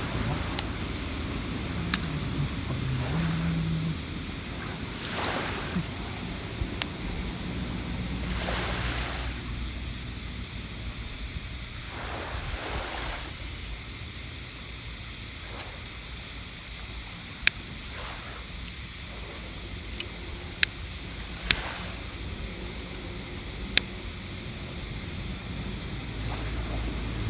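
Sea waves washing steadily on the shore, swelling now and then. About seven single sharp cracks from a wood campfire burning on the sand are scattered through it.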